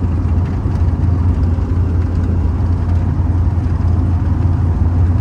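GMC Sierra pickup on the move, a steady low drone of engine and road noise.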